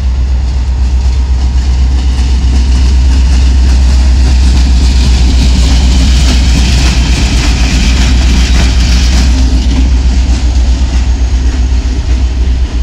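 Indiana & Ohio Railway diesel locomotive passing close by at low speed with covered hopper cars: a heavy engine rumble with wheels rolling and clattering on the rails. It grows loudest about halfway through as the locomotive goes by.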